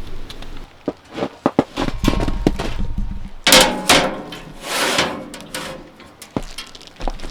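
A run of sharp knocks and clatter, then two longer scraping noises, and a couple of single knocks near the end: objects being handled.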